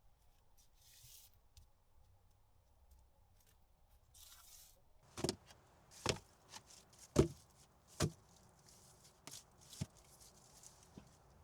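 Two short rustles, then, about five seconds in, a run of sharp chopping blows, roughly one a second.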